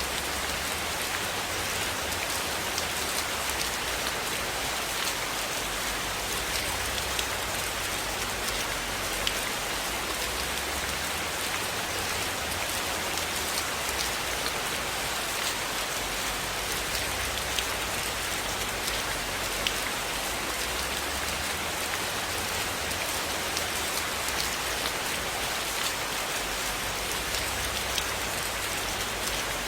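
Steady rainfall, an even hiss with scattered sharp drop ticks and a faint low rumble underneath.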